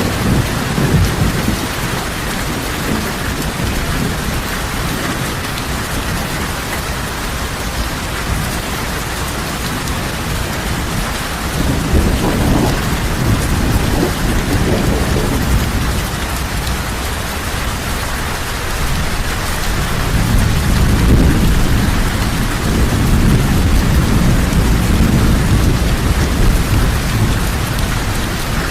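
Heavy rain falling steadily, with low rolling thunder that swells up about twelve seconds in and again through the second half.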